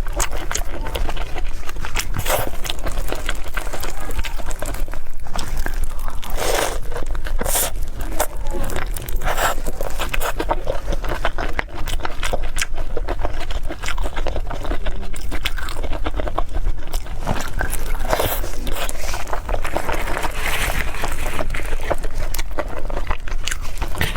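Close-miked eating: a person biting into and chewing food, with dense, continuous crunching and crackling.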